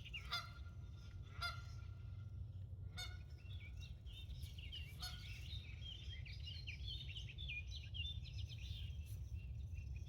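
Wild birds calling: a few short, honk-like calls typical of geese among busy, wavering chirps, over a steady low wind rumble.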